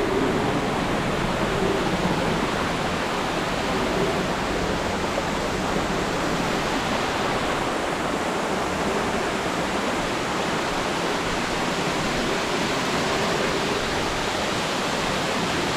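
Waterfall rushing: a steady, loud roar of falling water, heavy with recent rain.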